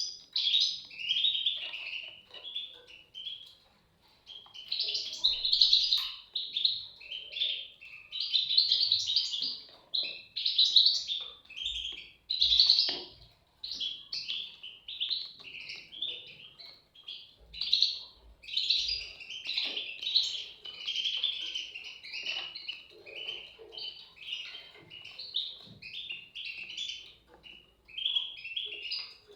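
European goldfinch chicks calling: a near-continuous chatter of high chirps in bursts, with brief pauses.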